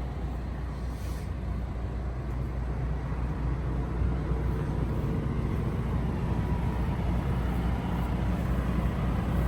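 Detroit DD13 diesel engine of a Western Star boom truck idling steadily, a low, even hum.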